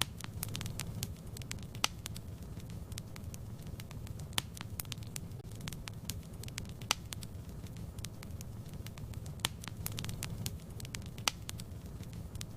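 Wood fire burning in a fireplace: a steady low rumble with irregular sharp crackles and pops, several louder snaps among them.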